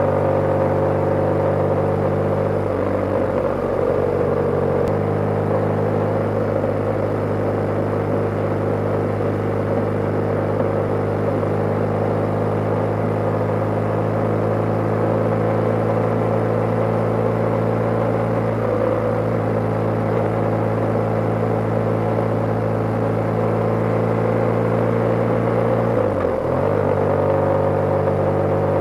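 BMW G/S motorcycle's air-cooled boxer-twin engine running steadily while riding, its note shifting about five seconds in and briefly dipping then picking up again near the end.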